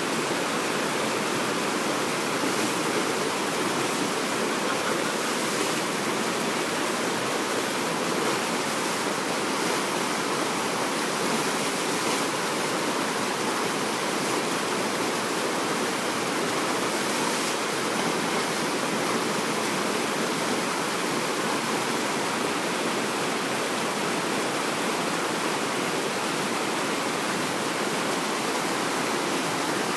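Water rushing steadily over a river weir.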